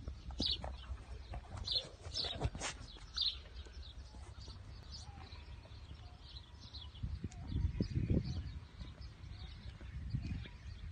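Small birds chirping in a quick repeated series of short high notes, fading later, with a low rumbling noise in the middle.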